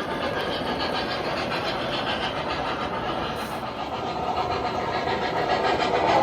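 O gauge model train running on three-rail track: a steady rolling rumble of wheels and motor hum.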